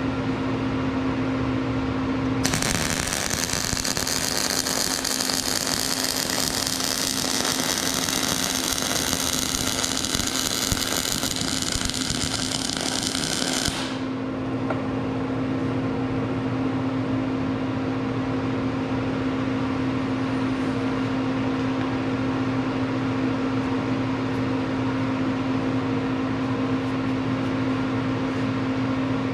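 Steady machine hum. A couple of seconds in, a loud hissing rush starts, runs for about eleven seconds and cuts off suddenly.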